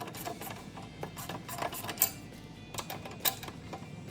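Hand socket ratchet clicking in short irregular strokes as an exhaust mounting bolt is turned loose.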